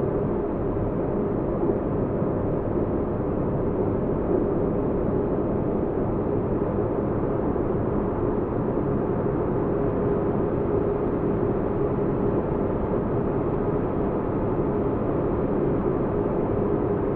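Sci-fi spaceship interior ambience: a steady, deep rumbling noise with a droning hum held over it.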